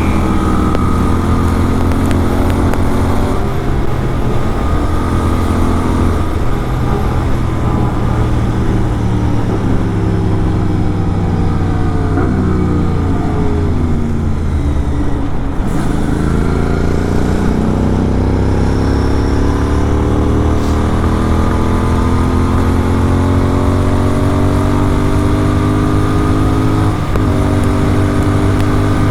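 Inline-four superbike with a full-system aftermarket exhaust, heard from on the bike while riding. The engine note falls in pitch through the first half as the bike slows, with a few gear changes. It then climbs steadily under acceleration, with one more gear change a couple of seconds before the end.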